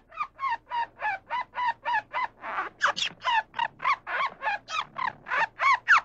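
A bird calling in a rapid, even series of short pitched calls, about three or four a second, growing louder and higher from about halfway through.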